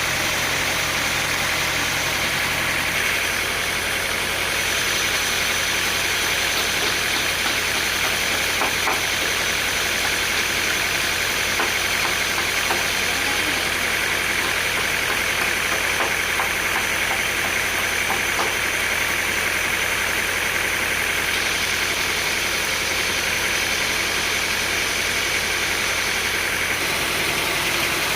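Sawmill machinery running steadily: a continuous mechanical drone with a few faint ticks.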